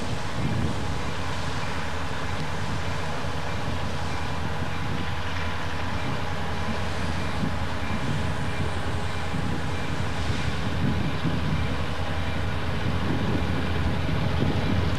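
Diesel freight locomotive approaching with its train: a steady, loud low engine rumble that grows a little louder near the end as it comes closer.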